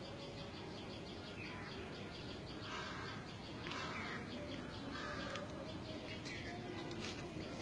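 Faint outdoor background with birds chirping now and then.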